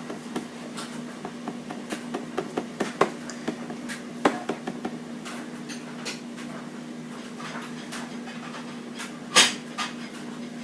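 Scattered light clicks and taps from handling a nail varnish bottle and a container, with one louder knock about nine seconds in, over a steady low hum.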